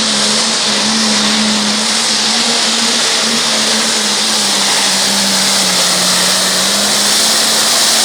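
Limited pro stock pulling tractor's single-turbo diesel engine at full throttle under load while pulling the sled, a loud steady run with a held pitch.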